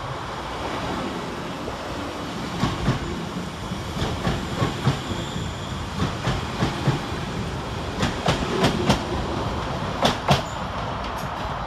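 West Midlands Railway Class 350 Desiro electric multiple unit trundling past, a steady rumble with its wheels clicking over the track. The clicks often come in pairs and start a couple of seconds in.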